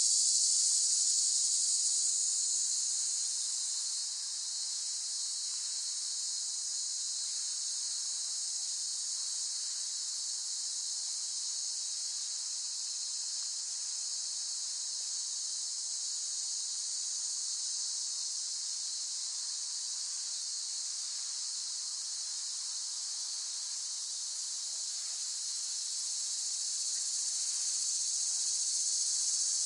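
Cicadas calling in a steady, high-pitched buzzing drone. It softens about four seconds in and swells again near the end.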